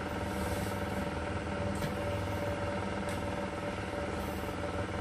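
A steady mechanical hum with a constant tone, and two faint light clicks, about two and three seconds in.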